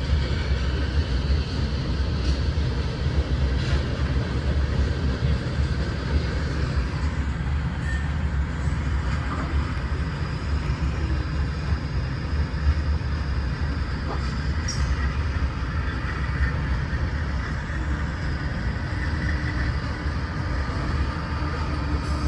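Herzog ballast train's cars rolling past: a steady, unbroken low rumble of wheels on rail with faint high tones over it.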